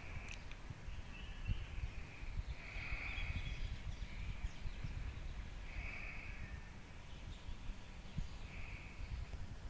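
Birds calling: short calls of about half a second each, repeated every one to three seconds, over a low irregular rumble.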